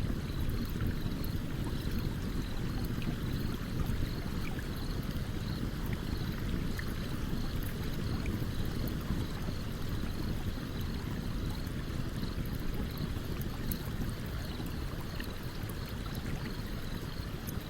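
Stream water running steadily, with faint scattered crackles from a campfire and a faint high chirp repeating in an even rhythm.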